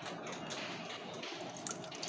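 Faint steady sound of running or trickling water, with a few small ticks.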